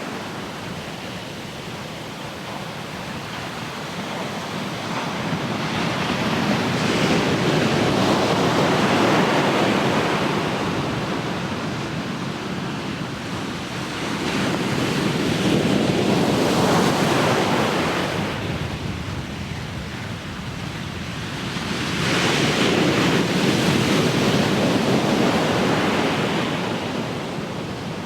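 Ocean waves breaking and washing onto the shore, rising and falling in three slow surges that each build over a few seconds and then fade.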